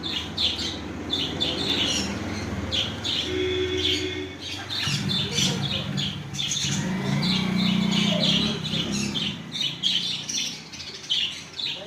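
Many small cage birds chirping and twittering continuously, with short high calls coming thick and fast and an occasional squawk. A lower, steadier sound runs underneath for a few seconds in the middle.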